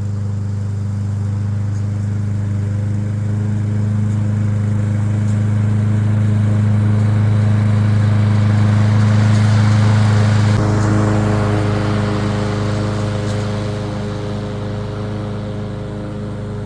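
Masport Rotarola petrol lawn mower engine running steadily while mowing. Its hum swells slightly, then changes abruptly about ten seconds in and eases off.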